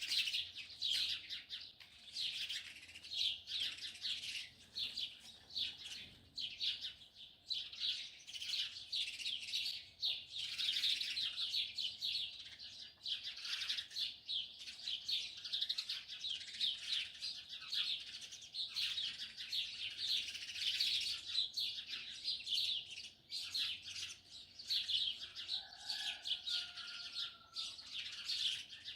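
A dense morning chorus of small songbirds chirping and twittering without a break. A brief, fainter, lower-pitched call comes in a little before the end.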